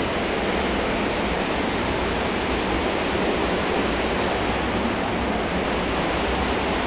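Steady rush of flowing river water in a concrete tunnel, an even hiss with a low rumble underneath that does not change.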